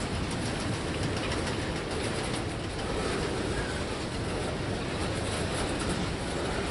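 Freight train cars rolling past: a steady rumble of steel wheels on rail, with faint clicking of wheels over the track.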